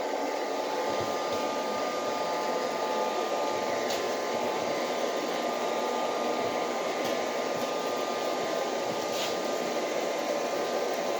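iLife V3s Pro robot vacuum running on a laminate floor: a steady whir of its suction fan and spinning brushes with a thin steady whine, and two faint brief ticks.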